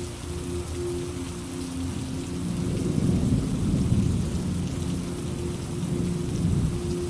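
Steady rain falling, with a low rumble of thunder that swells about two and a half seconds in, is loudest around four seconds, and fades out near the end.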